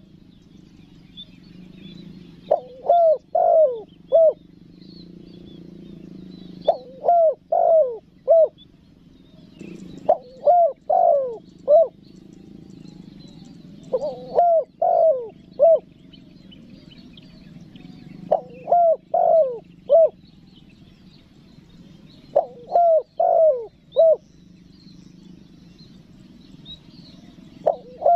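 Spotted dove (tekukur) singing its coo call: phrases of four or five rising-and-falling coos, one phrase about every four seconds.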